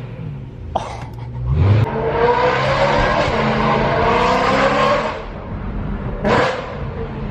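BMW E92 M3's V8 through a straight-piped Valvemaster catback exhaust with no resonators. It runs at low revs with a short blip about a second in, then climbs in pitch for about three seconds before dropping back, with one more brief blip near the end.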